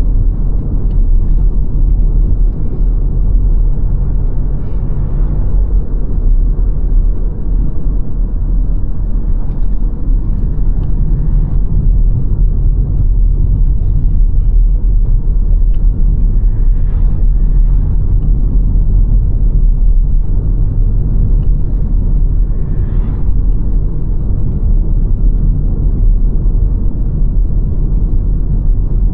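A car driving along the road: a steady low rumble of engine and tyre noise, with a few faint brief higher sounds over it.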